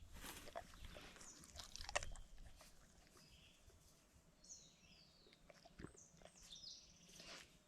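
Faint birdsong: a few short high chirps and brief downward-sliding whistles, with scattered small clicks and rustles.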